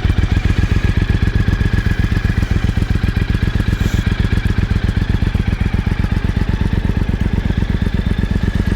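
2013 Triumph Thunderbird Storm's liquid-cooled, fuel-injected 1700 cc parallel-twin engine idling steadily, with a quiet, even idle and no revving.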